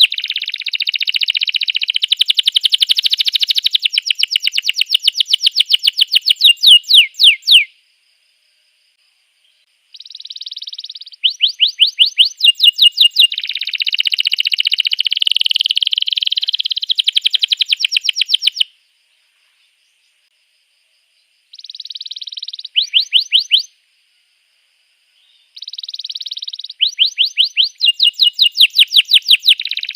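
Domestic canary singing loud phrases of rapid trills, fast runs of repeated sweeping notes mixed with a buzzier warble. The song stops dead three times for a couple of seconds, each time starting again with a new trill.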